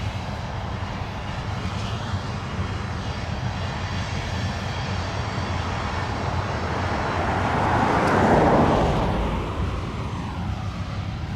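Loaded coal train passing with a steady low rumble. A louder swell builds to a peak about eight seconds in and fades with a falling pitch as something goes by, likely the rear locomotive.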